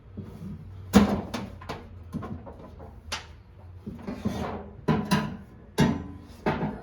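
Sharp knocks and clicks of hard parts being handled and fitted together, about eight in all at uneven spacing, the loudest about a second in.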